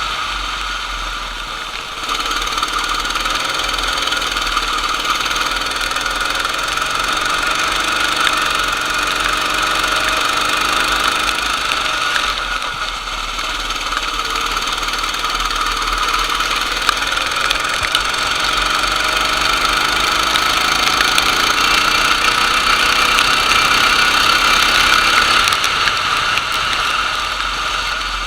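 Racing kart engine running under load, its pitch rising and falling repeatedly as the revs change.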